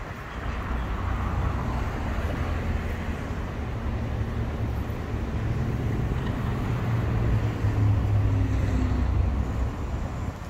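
Steady low rumble of idling vehicle engines, swelling briefly about eight seconds in.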